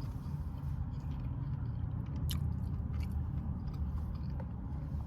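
A person chewing a mouthful of taco, over a steady low hum, with one sharp click a little over two seconds in.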